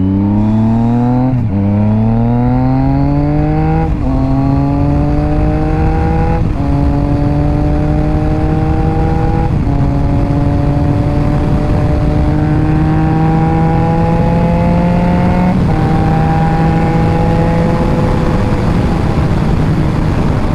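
Motorcycle engine through an SC-Project aftermarket exhaust, accelerating up through the gears: the note climbs and drops sharply at each of five upshifts, then holds a steady cruise near the end.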